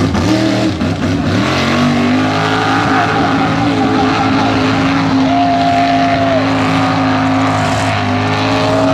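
Mega truck engine revving up over the first two seconds, then held at steady high revs.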